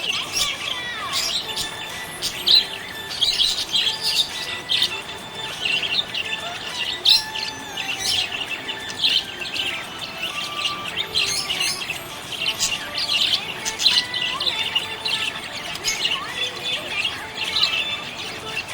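Small pet parrots chirping and chattering, many short high chirps overlapping without a break, as from several birds together.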